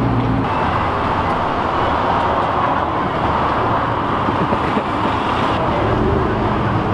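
Steady din of car engines running and traffic noise, with no break or single standout event.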